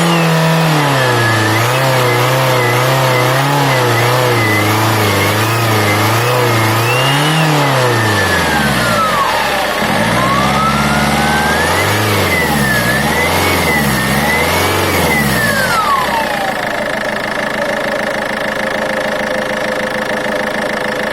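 Turbocharged car engine revved up and down several times, with a turbocharger whistle rising and falling in pitch with the revs, then dropping back to idle about three-quarters of the way through with a steady whine left. The whistle is the one the owner traced to an out-of-balance variable-geometry turbocharger.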